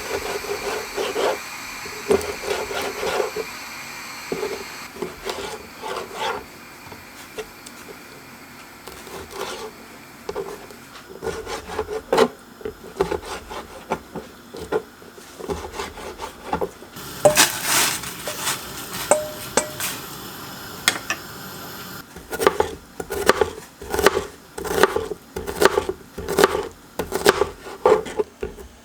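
Knife on a wooden cutting board: irregular knocks and scraping at first, then steady chopping at about two strokes a second from about two-thirds of the way in.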